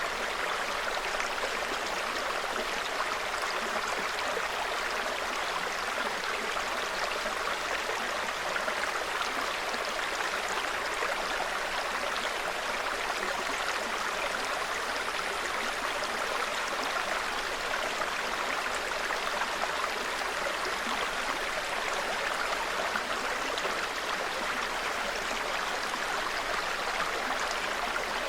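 Small shallow mountain stream babbling steadily over rocks, an even water rush without breaks.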